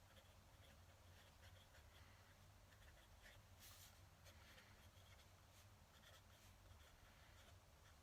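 Faint scratching of a fountain pen nib on paper, in short irregular strokes, over a steady low hum.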